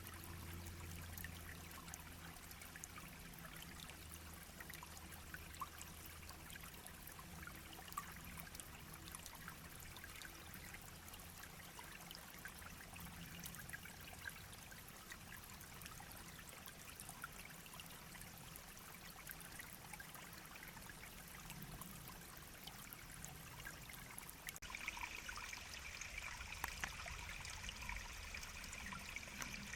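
A shallow stream babbling and trickling, a steady soft rush of water with many small splashes. About five seconds before the end the water sound suddenly turns brighter and higher-pitched.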